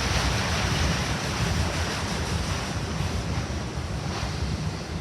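Wind buffeting the microphone: a rushing, rumbling noise that slowly fades.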